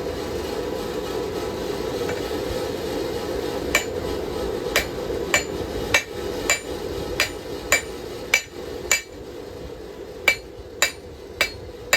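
Hand hammer striking hot knife steel on an anvil, about a dozen ringing blows roughly every half second, starting about four seconds in, as the blade's bevel is forged. A steady rushing noise runs underneath.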